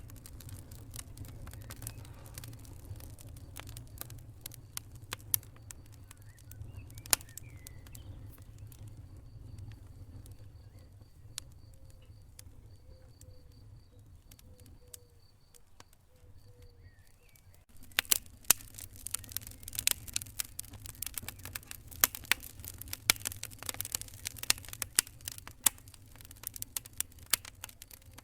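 Wood fire crackling, with scattered sharp pops over a low rumble of flames. The crackling turns louder and denser about two-thirds of the way through.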